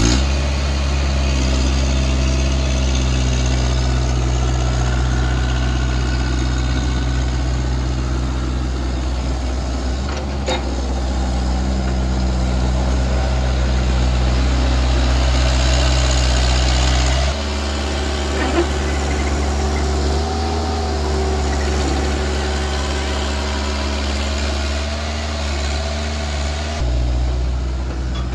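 Diesel engine of a Kubota KX161-3 mini excavator running steadily at idle. Its deep low hum drops away abruptly about two-thirds of the way through and comes back shortly before the end.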